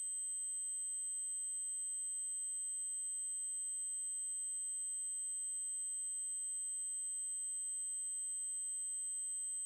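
Synthesized 8192 Hz triangle-wave test tone: one steady, very high-pitched tone held without change.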